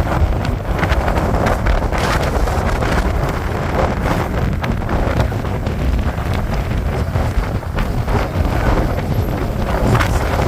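Strong blizzard wind, gusting at 40 to 50 mph, buffeting the microphone: a loud, steady rush with a heavy low rumble and constant short thuds from the gusts.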